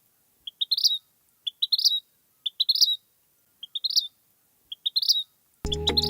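Vermilion flycatcher singing: a short phrase of a few quick notes rising to a high peak, repeated about once a second, six times. Music comes in near the end.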